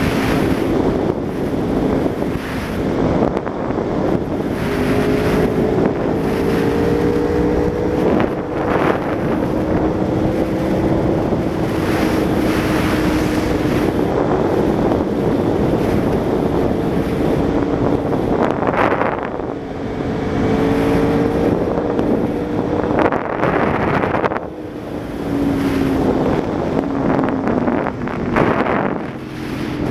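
Aprilia Tuono V4 APRC's V4 engine running through a Laser aftermarket exhaust, its note holding near-steady revs and drifting slowly up and down, under heavy wind noise on the microphone.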